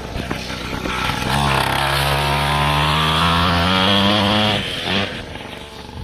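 Motocross bike engine accelerating hard, its pitch climbing steadily for about three seconds, then the throttle is shut off suddenly, followed by a brief blip of revs.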